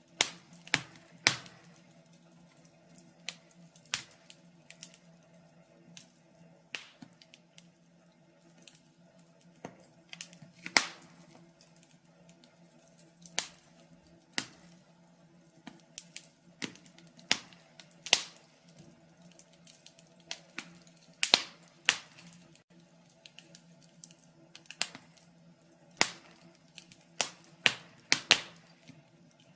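Wood fire crackling: irregular sharp pops and snaps of burning logs, sometimes several in quick succession, with quieter gaps between.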